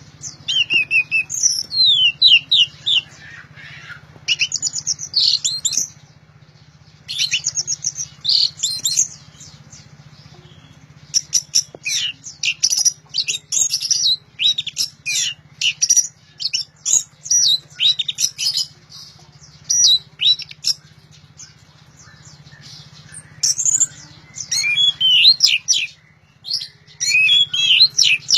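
Orange-headed thrush singing loudly in phrases of rapid, varied, high chirps and trills, each a second or a few seconds long, with short pauses between them. A faint steady low hum runs underneath.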